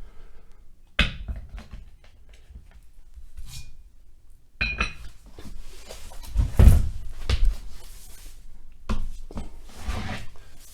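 Handling noises on a laminate floor as a glued board is worked on: a sharp knock about a second in, then a few seconds of rustling and several dull thumps, the heaviest more than halfway through.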